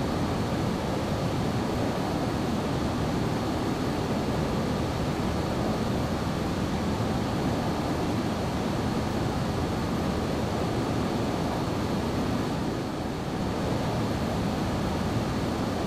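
Boeing 737-800 in flight on its approach: a steady, even rush of engine and airflow noise, with a faint high whine held on one note.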